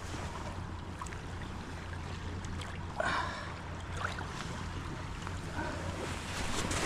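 Steady rushing of a river's current, with one brief louder noise about three seconds in.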